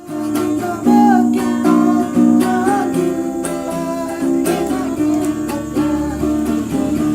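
Busker strumming a small plucked string instrument, like a ukulele, in steady strokes, with a wavering sung melody line over it.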